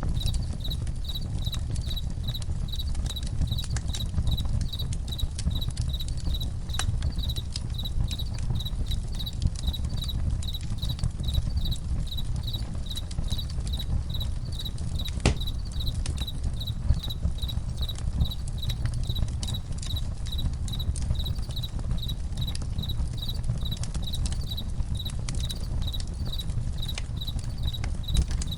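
Crickets chirping in a steady, even pulse, with a campfire crackling: scattered sharp pops, one louder about fifteen seconds in, over a low steady rumble.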